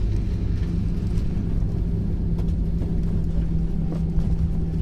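Jet airliner cabin noise on landing: a steady low rumble with a constant hum, heard from inside the cabin.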